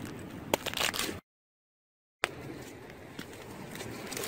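Corn cobs grilling over wood embers, kernels popping and crackling in a few sharp snaps over a steady low hiss. The sound drops out completely for about a second near the middle.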